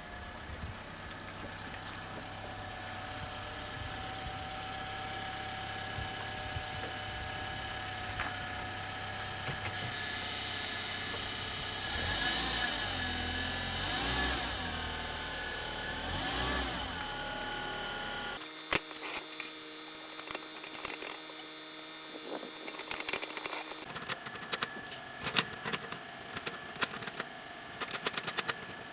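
Car engine running, rising and falling in pitch three times as the car is driven a short way, then switched off about eighteen seconds in. A sharp click and a series of smaller clicks and knocks follow.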